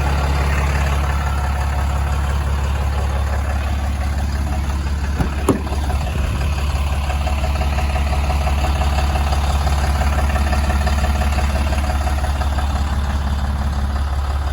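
The Ram 5500's 6.7-litre Cummins diesel idling steadily, with a brief knock about five and a half seconds in.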